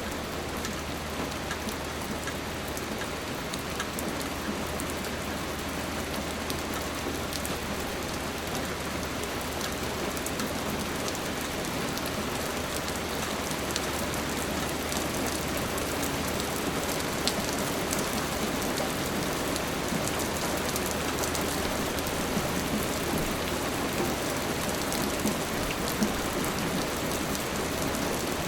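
Steady rain falling: a dense, even hiss dotted with frequent sharp ticks of single drops, over a low steady rumble.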